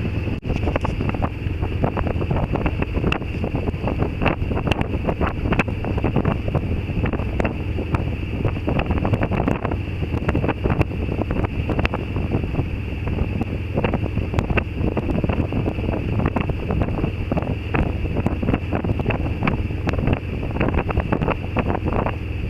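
Old Yanmar inboard diesel engine of a sailboat running hard at raised revs, a steady low drone, with wind buffeting and crackling on the microphone.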